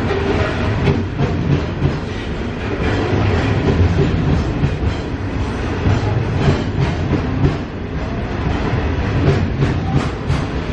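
Loaded coal train rolling past: the wagons make a steady heavy rumble, with repeated clicks of the wheels over the rail joints.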